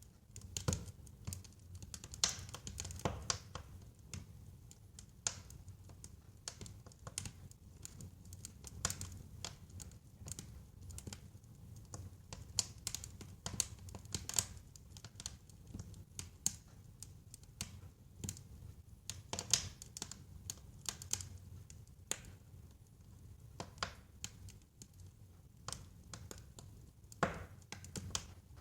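Wood fire crackling: irregular sharp crackles and pops over a soft low rumble of burning logs.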